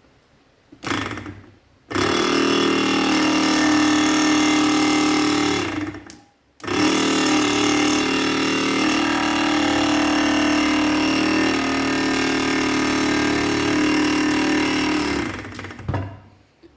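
Small 12-volt air-suspension compressor (electric motor driving a piston pump) run on a bench test. It starts with a brief spin about a second in, then runs steadily for about four seconds, stops for a moment, and runs again for about nine seconds with a steady buzzing hum.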